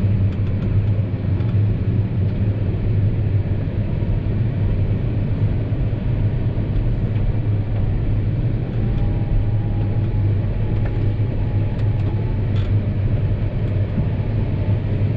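John Deere 6250R tractor's six-cylinder diesel engine running steadily under load, pulling a chisel cultivator through wet ground: a low, even drone with no change in pitch.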